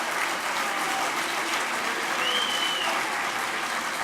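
Large audience applauding steadily, with a short high call from the crowd about two seconds in.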